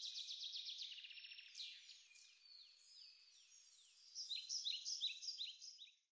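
Small birds chirping and trilling in quick, high repeated phrases, thinning out in the middle and picking up again about four seconds in, then cutting off abruptly just before the end.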